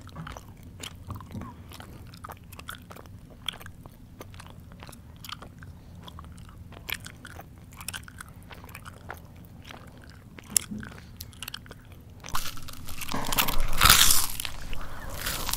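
A person chewing: a stream of small wet mouth clicks and smacks, then about three quarters of the way in, much louder crunching as crunchy food is bitten.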